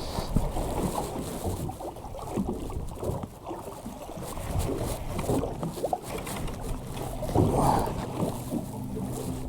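Wind buffeting the microphone and water slapping against a small boat's hull as it rocks on a swell, with a louder surge about three-quarters through. A low steady hum comes in near the end.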